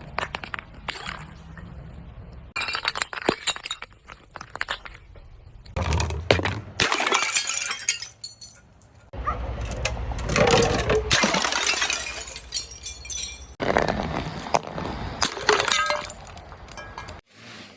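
Glass bottles being crushed and breaking, in several bouts of dense crunching and clinking shards, each lasting a couple of seconds, with brief lulls between.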